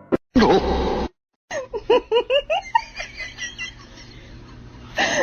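A person laughing in a quick run of high, rising-and-falling bursts that fade out, after a short loud noisy burst at the start.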